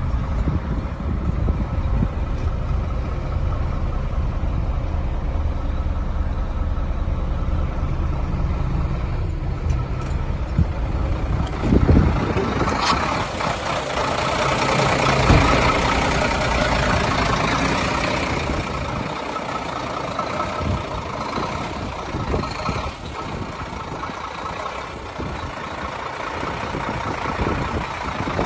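Iveco Trakker 380 truck's diesel engine running steadily. About twelve seconds in, a higher-pitched mechanical whine and rush joins it for several seconds, with a couple of knocks, then fades back to the steady engine.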